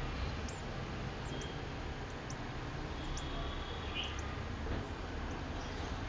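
Short, high, thin bird chirps, scattered about once a second, over a steady low background rumble and hiss.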